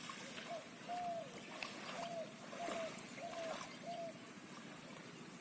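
A bird calling: six short arched whistled notes, evenly repeated a little over half a second apart, over faint outdoor background.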